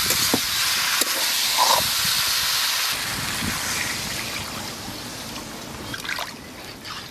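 Potatoes and spice paste sizzling hard in a steel kadai, with a metal ladle clicking against the pan. About three seconds in, water is poured in and the sizzle dies down to a quieter hiss.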